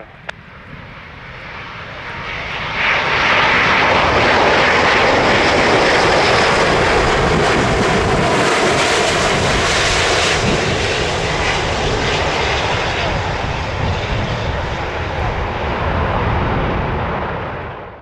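Jet engine noise from an Airbus A350-941 with Rolls-Royce Trent XWB engines as it passes. It builds over about three seconds, holds loud and steady, then fades near the end.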